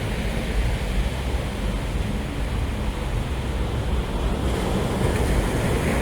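Sea surf washing on the shore, a steady rush of waves, with wind on the microphone.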